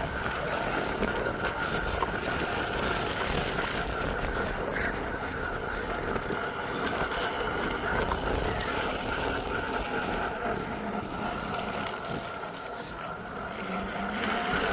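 Riding a small vehicle over rough ground: wind buffeting the microphone and a rattling rumble, with a steady high whine held throughout.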